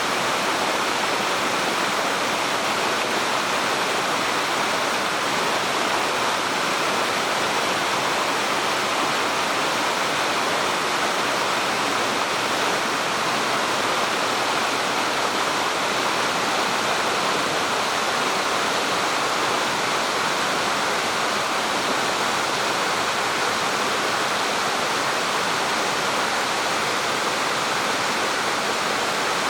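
Spring-fed mountain stream flowing: a steady, unbroken rush of water.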